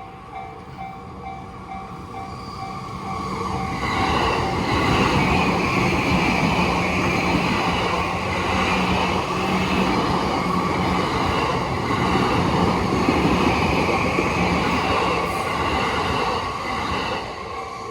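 An E235-series Yamanote Line electric train passes over a level crossing. The rush of its wheels and running gear swells about four seconds in, holds loud for some thirteen seconds with a steady low hum underneath, and falls away near the end. The crossing's warning bell rings in a regular pulsing rhythm at the start and again as the train clears.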